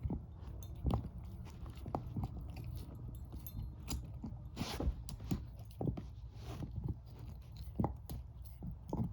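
Shepherd-mix dog chewing a bone: irregular sharp crunches, roughly one a second, with a couple of longer rasping gnaws about halfway through.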